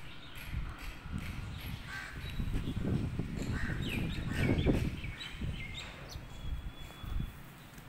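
Bird calls: a cluster of short pitched calls through the middle, over a low rumble that is loudest about halfway through.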